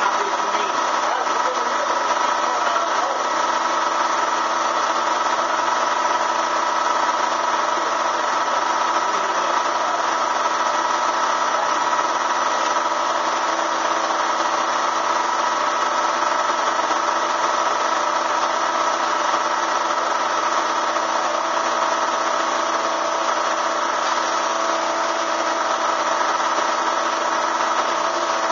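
Bee vacuum's electric motor running steadily, a constant whine with an even rush of air.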